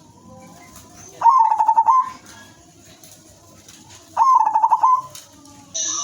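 Zebra dove (perkutut) hen calling twice, about three seconds apart. Each call is a quick, stuttering string of coos lasting under a second. A steady hiss starts just before the end.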